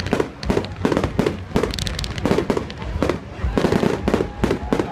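Aerial fireworks bursting in quick succession: a rapid, overlapping run of booms and sharp cracks, several each second.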